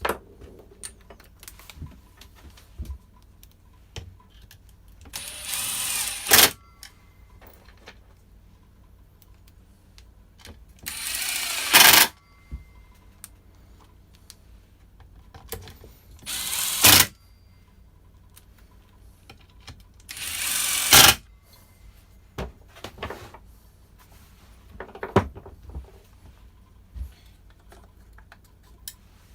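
Four short blasts from a compressed-air blow gun, each about a second long, spaced a few seconds apart, as parts are blown clean. Small clicks and knocks of metal parts being handled come between the blasts.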